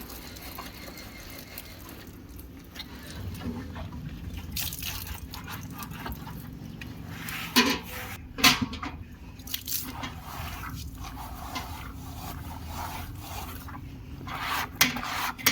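Wet squishing and dripping as shampoo is worked into a wet Saint Bernard's thick coat with a grooming glove. A few brief sharp sounds come around the middle and near the end.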